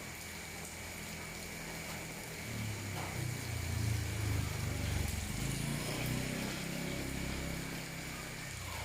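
A vehicle engine passes through steady rain: it grows louder from about two and a half seconds in, is loudest around four to five seconds, and fades near the end.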